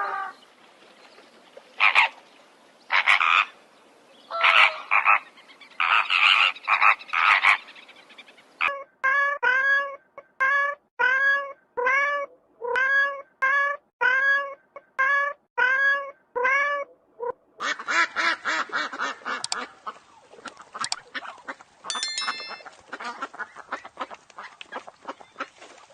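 A run of animal calls: several harsh, noisy calls, then a steady series of pitched calls about two a second, then fast rattling, croak-like calls from about two-thirds of the way in.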